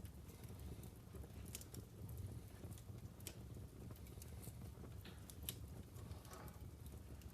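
Wood logs burning in a fireplace, crackling with irregular sharp snaps and pops over a faint, steady low rumble of the fire.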